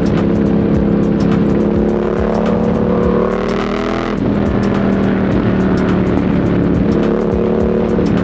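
2025 Yamaha MT-07's parallel-twin engine running under way at a steady pace, its pitch sliding down about three seconds in as the rider eases off, then settling steady again.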